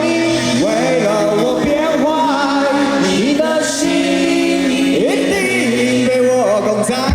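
Live band music with singing: held, choir-like chords and sliding, wavering vocal lines, with no drum beat.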